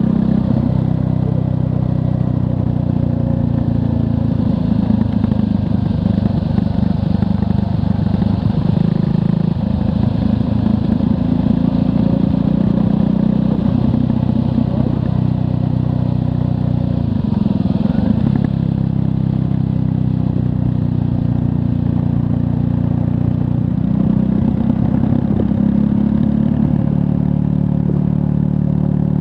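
Triumph Scrambler 400 X's 398 cc single-cylinder engine running under way, its engine note mostly steady but dropping and picking back up a few times as the throttle or gear changes.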